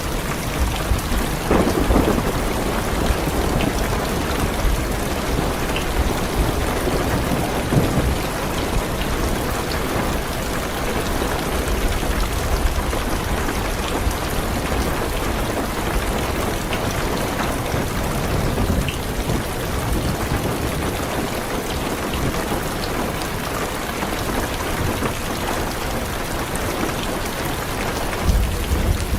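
Heavy rain falling steadily on a car's roof and windows, with low thunder rumbling underneath.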